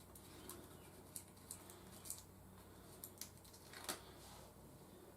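Faint handling noise of a sticker and a plastic toy jet: light clicks and rustles scattered through a near-quiet room, the loudest click about four seconds in.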